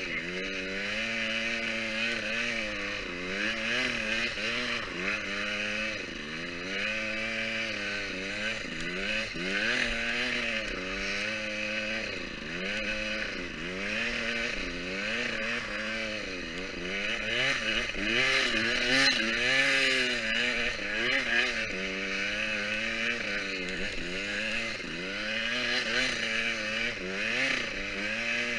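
Motocross bike engine revving up and falling back again and again as it is ridden, the pitch climbing and dropping every second or two.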